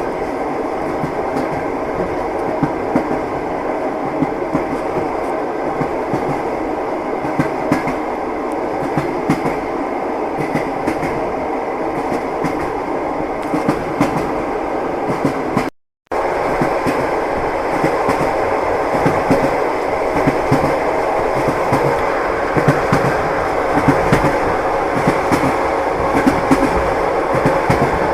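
Train wheels clacking over the rail joints, with the steady rumble of a moving railway carriage. About sixteen seconds in, the sound cuts out for a fraction of a second and resumes.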